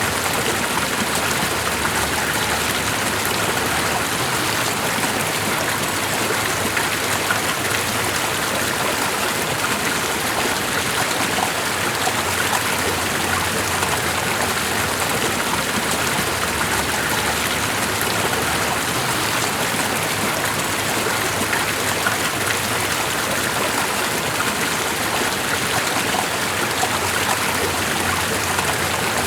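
Steady rushing water, an even hiss with fine spattering that does not change.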